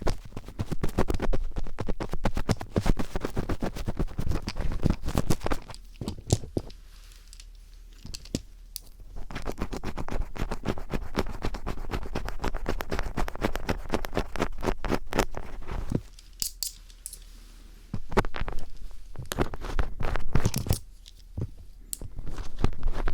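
Close-up scratching and scraping of a Phillips screwdriver tip worked against the microphone, mimicking ear cleaning. It comes in long runs of dense scratchy clicks, with three short quieter pauses.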